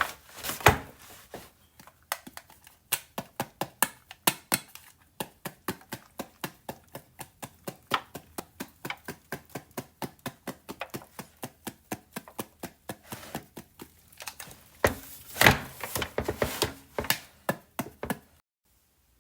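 Knife chopping on a cutting board in steady, even strokes, about three a second, with a few harder chops. The chopping stops suddenly near the end.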